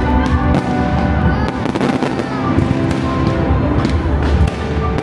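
Fireworks going off, many sharp bangs and crackles in quick irregular succession, with music playing under them.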